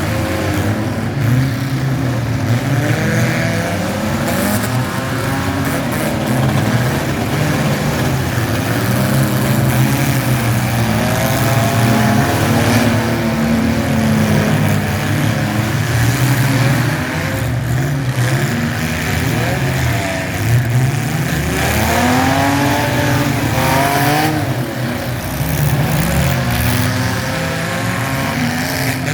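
Mini truck engines running and revving, with the pitch rising and falling several times as they speed up and ease off.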